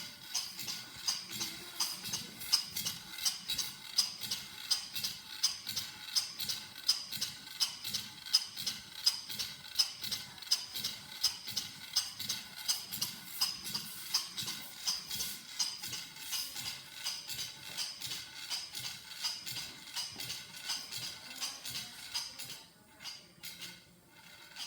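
Stuart Major Beam model engine running, its valve gear and exhaust making an even rhythm of sharp clacks about two a second; the rhythm stops near the end.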